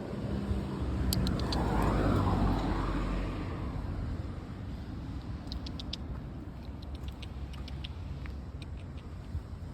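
A vehicle passes by, its rumble swelling over the first few seconds and then fading to a steady background hum. Short, sharp high ticks or chirps come in small clusters, about a second in and again around the middle.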